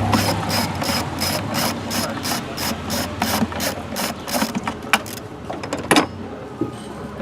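Hand socket ratchet clicking steadily at about four clicks a second, stopping about four and a half seconds in, followed by a single sharp knock near the end.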